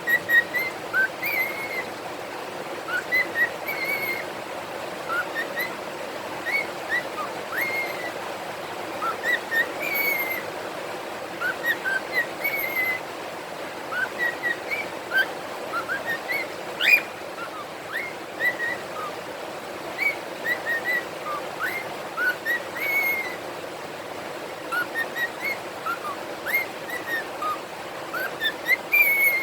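Pet cockatiels singing: a steady stream of short, clear whistled notes and quick rising sweeps, over a steady background hiss.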